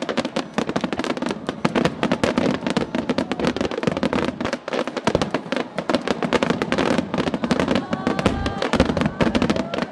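Aerial fireworks shells bursting in a rapid barrage: dense, overlapping bangs and crackles with no pause. About eight seconds in, a few short gliding tones rise over the bursts.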